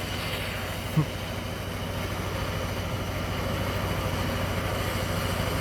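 A motor running steadily, with an even low pulsing and hum, and a brief short sound about a second in.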